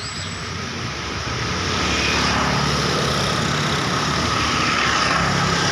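Road traffic passing close by: engine and tyre noise of a vehicle building over the first two seconds, then holding steady and loud.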